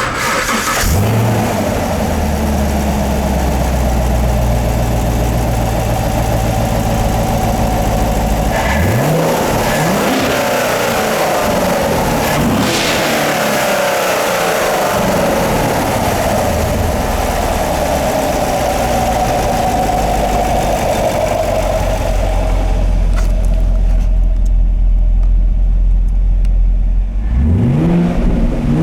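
Chevrolet 6.2L Gen V LT1 V8 running at idle and revved several times. The pitch rises about a second in, again around eight seconds, and near the end.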